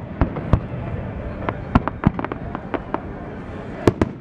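Fireworks going off: an irregular run of sharp bangs and pops, about a dozen in four seconds, over a steady background rumble.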